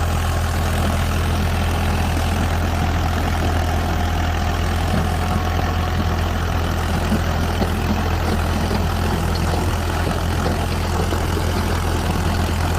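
Steady idling engine sound, a low, even hum.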